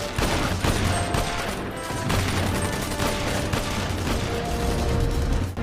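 Rapid gunfire sound effect: a dense, continuous volley like machine-gun fire, starting abruptly.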